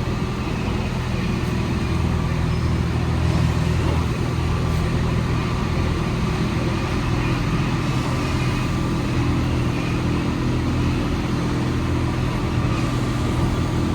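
Alstom NS-74 rubber-tyred metro train running between stations, heard from inside the car: a steady low hum over even rolling noise.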